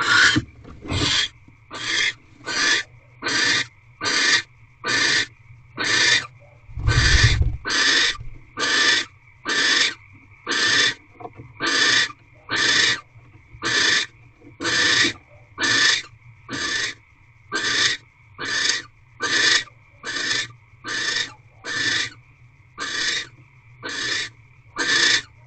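Barn owl giving a long run of harsh, hissing rasps, repeated evenly about four times every three seconds. This is the snoring, begging call barn owls make in the nest box during courtship.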